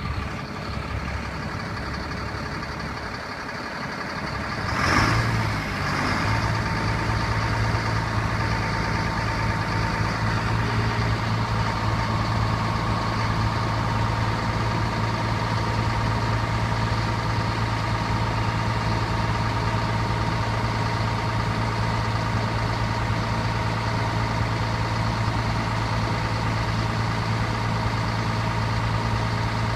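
1996 Freightliner roll-off truck's diesel engine starting: about five seconds in it catches with a brief rev, then settles into a steady idle.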